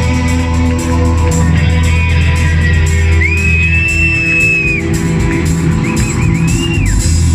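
Live rock band playing, with guitars over a steady bass; a long high note is held out through the middle.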